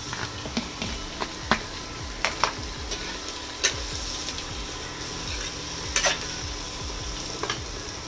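Boiled brain pieces frying in onion and green masala in a pan, with a steady sizzle, while a spatula stirs them with scattered clicks and scrapes against the pan.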